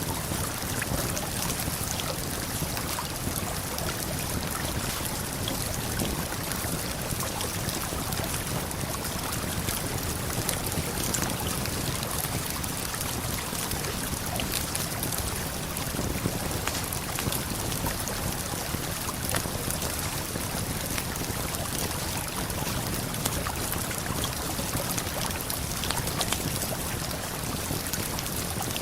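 Steady rushing water of a waterfall and river, with a campfire crackling now and then in small sharp pops.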